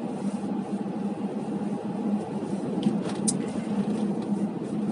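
Steady engine and road noise heard inside a moving car's cabin, with a constant low hum. A single short click sounds a little past three seconds in.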